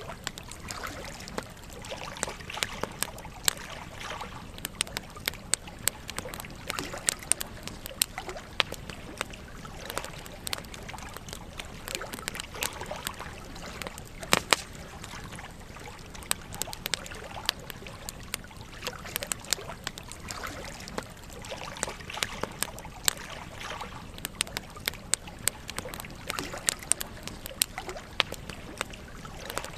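Campfire burning, the wood crackling and popping in frequent irregular sharp snaps over a steady hiss, with one louder pop about halfway through.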